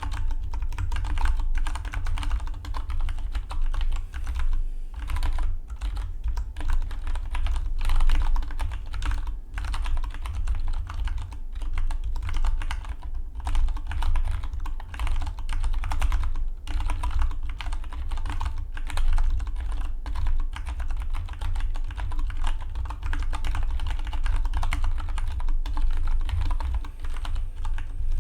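Continuous fast typing on a Dygma Defy split mechanical keyboard: a dense, unbroken run of keystroke clicks with a few brief pauses.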